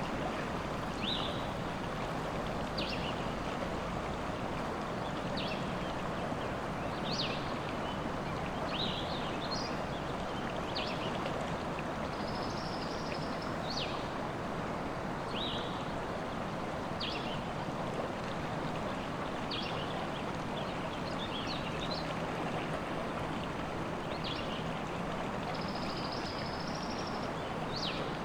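River water flowing steadily, with birds giving short, high chirps every second or two over it and two longer, high trilled notes, one near the middle and one near the end.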